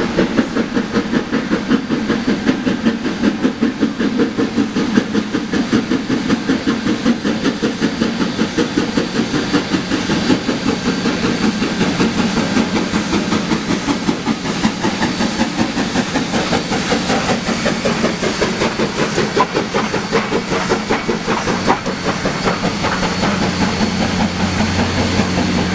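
S160 2-8-0 steam locomotive working a train upgrade, its exhaust chuffing in a rapid, even beat over a steady steam hiss.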